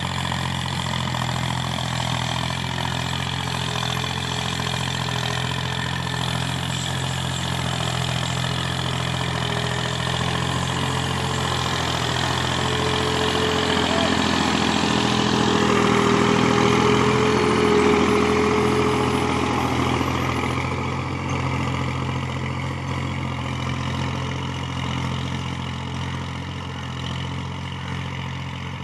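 Massey Ferguson 240 tractor's three-cylinder diesel engine running steadily under load while pulling an 11-tine cultivator. It gets louder about halfway through, then eases back.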